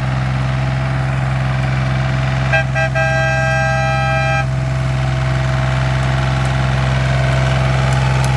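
A diesel tractor engine runs with a steady low hum. About two and a half seconds in, a vehicle horn gives two quick toots and then one longer blast of about a second and a half.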